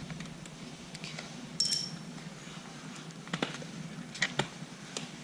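Small parts or tools being handled, giving a few sharp clicks and taps and one short metallic clink about one and a half seconds in.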